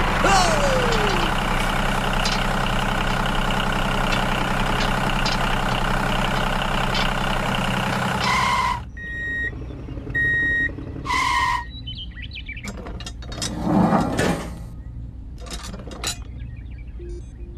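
Tractor engine running steadily, cutting off about eight and a half seconds in. A few short beeps follow, then a brief low rumble and some light clicks.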